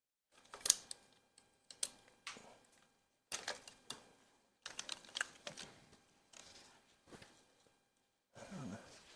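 Irregular metallic clicks and clatters in short clusters: hand tools and small parts being handled while engine-bay parts are dismantled. A duller knock comes near the end.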